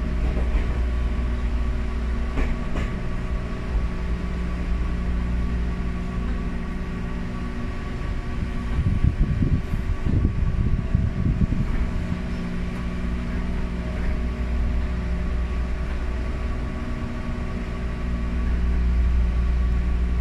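Inside a Ryutetsu 5000 series electric train (ex-Seibu New 101 series) under way: a steady traction motor and gear hum over a low wheel-and-rail rumble. In the middle the hum drops out for a few seconds, leaving a rougher, uneven rumble, and then it comes back.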